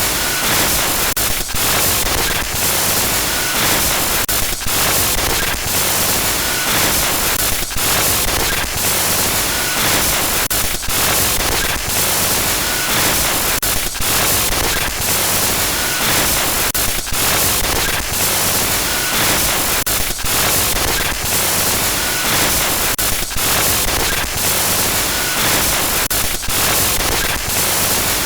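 Loud, continuous glitch-noise static: a harsh hiss across the whole range of pitch, cut by brief dropouts every second or so, with faint short beeps now and then.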